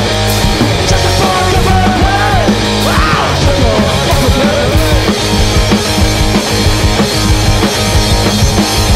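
Punk rock band playing loudly: distorted electric guitar with bending, sliding notes over a steady rhythm.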